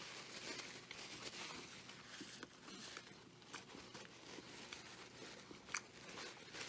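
Faint close-up chewing of a bacon cheeseburger, with its paper wrapper crinkling in the hands and one short sharp crackle near the end.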